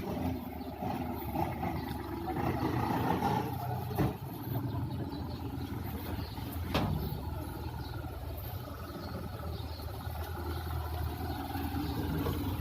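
Fast rescue boat's engine running steadily, with two sharp knocks about four and seven seconds in.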